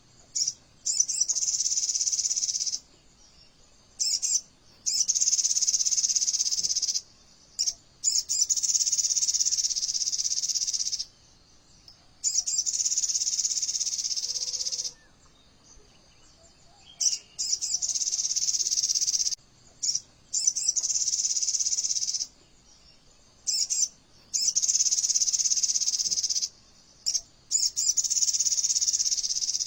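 Sogon bird song: a fast, dense, high-pitched trill in the rapid-fire 'AK47' style. It comes in about eight bursts of one to three seconds each, with short silent gaps between them.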